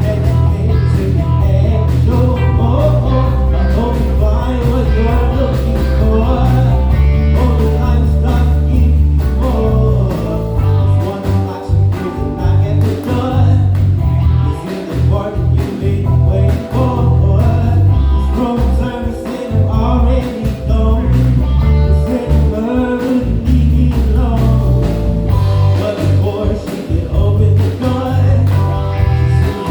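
Live band music: electric bass and drums under keys, with guitar and a vocal or sax melody line on top. The bass line turns choppy about a third of the way in, then settles back into a steady groove.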